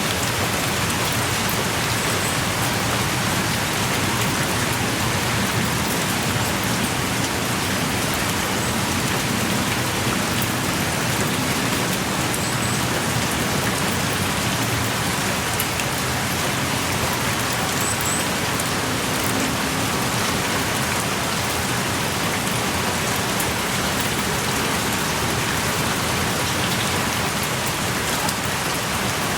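Heavy, steady rain pouring down, heard from inside a small cave.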